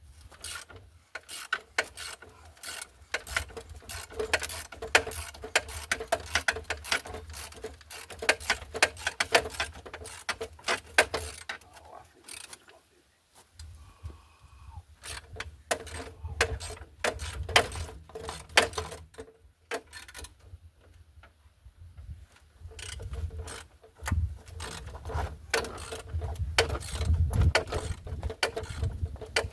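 Hand socket ratchet clicking in quick runs as a suspension nut is turned, with a couple of short pauses, over a faint steady hum.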